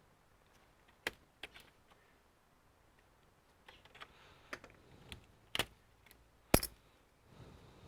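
Scattered sharp clicks and taps of small tools and screws against a laptop's plastic case during disassembly, irregularly spaced, with the loudest knock about six and a half seconds in.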